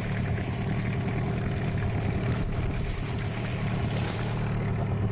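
Boat's outboard motor idling steadily, with wind and water noise over it.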